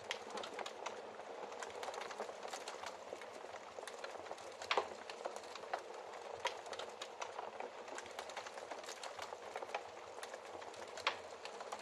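Wood fire crackling in a fireplace: a steady crackle with frequent small pops, a louder pop about five seconds in and another near the end.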